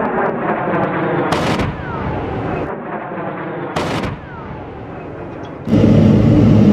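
A-10's GAU-8 Avenger 30 mm rotary cannon firing so fast that the shots blend into a continuous buzz, with two sharp cracks about a second and a half and four seconds in. Near the end a louder steady rumble cuts in.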